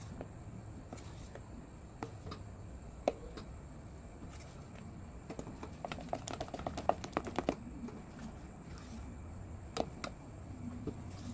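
Light clicks and taps from a pan of bar soap melting on a low flame with a cornstarch mixture, with a quick run of clicks about six seconds in, over a low steady hum.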